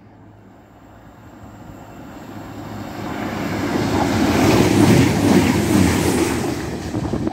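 CrossCountry Voyager diesel train passing a platform at speed without stopping: a rush of wheels and air that swells as it approaches and is loudest as the coaches go by, then breaks off suddenly at the end.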